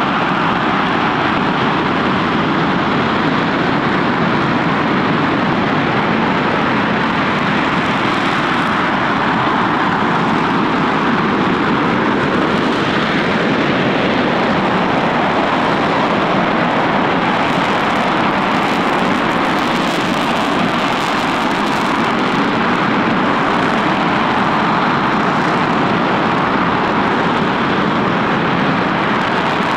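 RS-25 rocket engine (a former Space Shuttle main engine) firing steadily on a test stand: a loud, dense, unbroken noise with no change in level.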